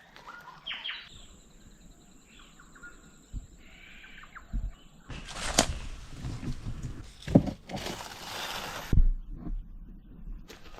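Rainforest birds calling over a thin, steady high whistle for the first few seconds. From about halfway, footsteps and rustling through dry leaf litter and vegetation take over, with several heavier thuds.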